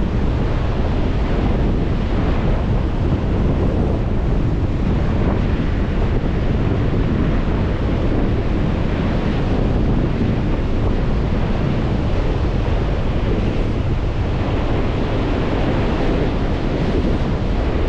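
Lake waves washing onto the shore in strong wind, with wind buffeting the microphone in a steady low rumble.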